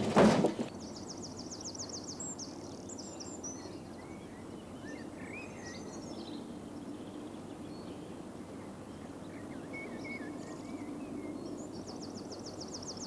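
Outdoor ambience with birdsong: a small songbird gives a rapid, high, two-second trill near the start and again near the end, with scattered chirps from other birds between. A brief loud noise comes right at the start.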